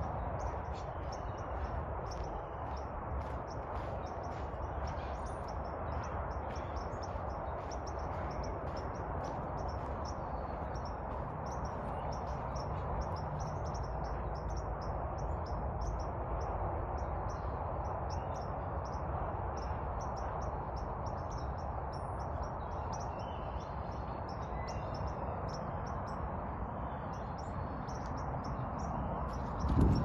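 Outdoor ambience with a steady low hiss, over which a bird gives short high chirps, repeating about twice a second.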